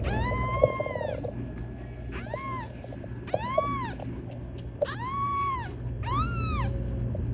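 A kitten meowing repeatedly, about five high-pitched meows each rising and falling in pitch, calling for its mother cat. A steady low hum runs underneath.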